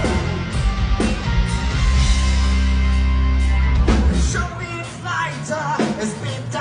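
Heavy metal band playing, with a heavy bass and drum backing; about four seconds in the low end drops out, leaving lighter instruments and a voice.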